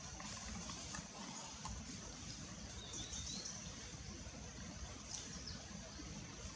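Outdoor background: a steady high-pitched hiss over a low rumble, with a few faint bird-like chirps about halfway through.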